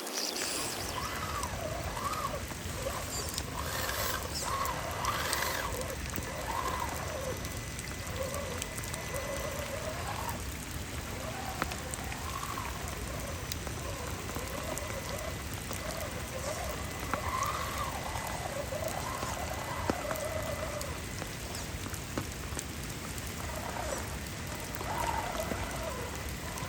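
Steady rain falling, with a faint whine that wavers up and down in pitch, like a small electric motor under changing throttle.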